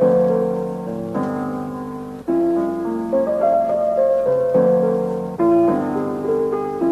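Background music: a piano playing slow held chords that change about every second.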